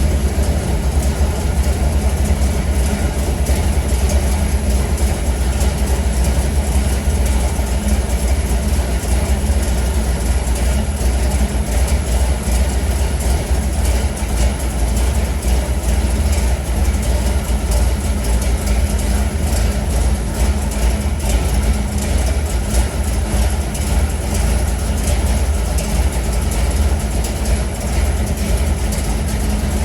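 The 1965 Ford shop truck's FE 390 big-block V8 running steadily, a loud, even, low rumble with no revving.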